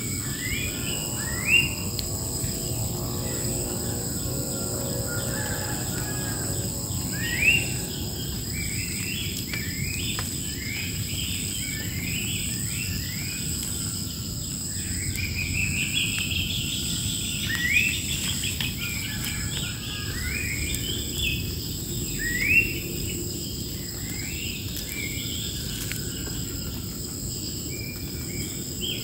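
Wild birds calling over and over in short rising chirps, over a steady high-pitched drone of insects. A few sharp knocks stand out now and then.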